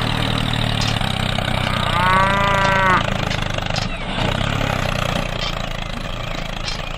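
A small engine running steadily, with a single mooing call of about a second, like a cow, about two seconds in.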